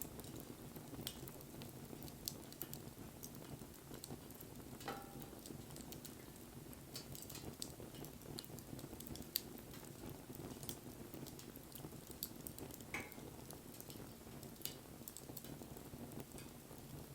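Wood fire crackling, with irregular sharp pops over a low, steady flame rumble. Twice, about five seconds in and again near thirteen seconds, a short falling tone sounds from the burning wood.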